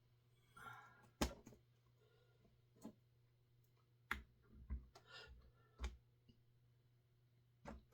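Scattered light clicks and knocks against near silence, about half a dozen of them, the loudest about a second in: chainsaw parts and hand tools being handled during disassembly.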